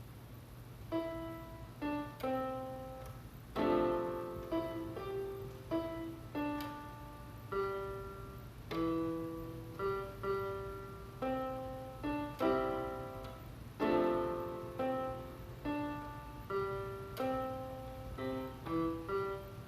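Solo piano playing a slow piece: single notes and chords struck roughly once a second, each left to ring and fade.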